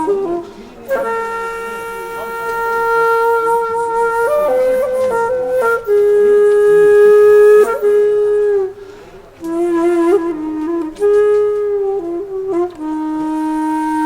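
Background music: a solo flute playing a slow melody in long held notes, with a brief pause about nine seconds in.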